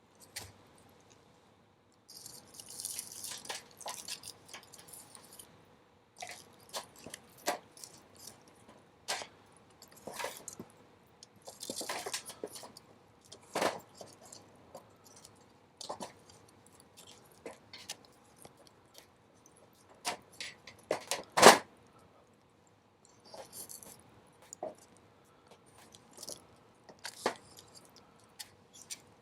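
Burning wood in a campfire crackling, with irregular sharp pops, the loudest about two-thirds of the way through, and a few short spells of hissing.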